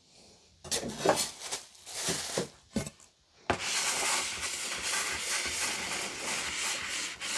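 Irregular crunching and knocking from hands working at the cake, then, about three and a half seconds in, a steady scraping rub starts and keeps going.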